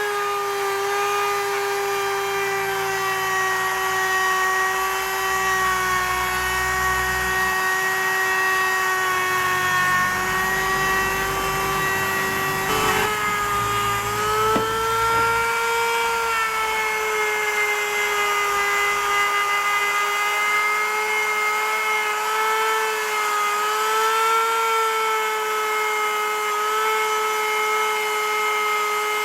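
Electric power tool motor running continuously with a steady whining hum, its pitch wavering slightly up and down, with a short click about halfway through.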